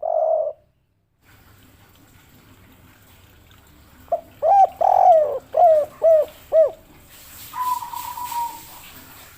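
Spotted dove (derkuku, the 'kuk 3' three-note cooing type) cooing. One coo phrase ends just as the sound begins; after a pause, a quick run of about five short coos comes near the middle, followed by a longer, flatter note.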